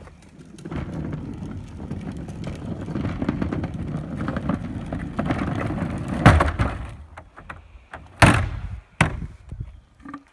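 Cut pieces of composite decking being handled and thrown into a garbage can: a stretch of scraping and clattering, then three heavy thuds about six, eight and nine seconds in.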